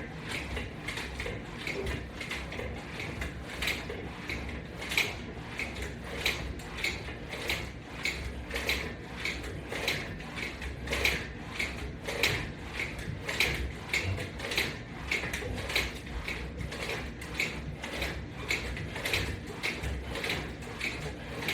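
Metal latch-bar attachment hardware clicking and rattling in a fast, even rhythm, about two to three clicks a second, with each pull on the resistance band.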